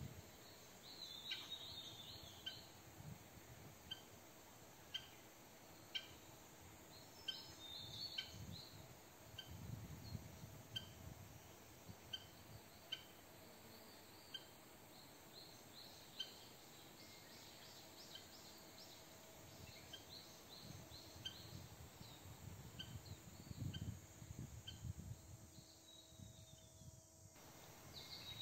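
Faint outdoor ambience: a bird repeating a short call about once a second, stopping about two-thirds of the way through, with other higher chirps and short strokes. Several low rumbles come and go.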